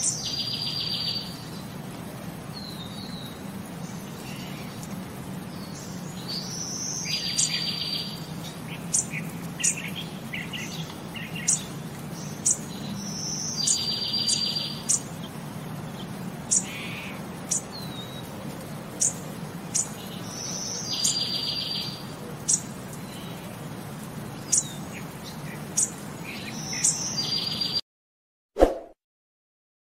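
Birds singing: a phrase repeated about every seven seconds, a short high note followed by a rapid buzzy trill about a second long, with short sharp high chirps in between. It cuts off suddenly near the end.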